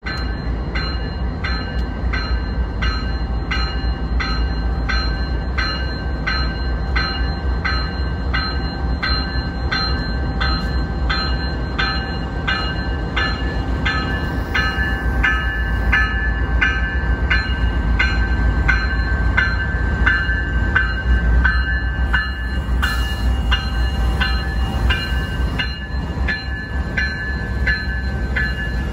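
Canadian Pacific freight train's diesel locomotives passing close by with a heavy, steady rumble, while a bell rings evenly about twice a second.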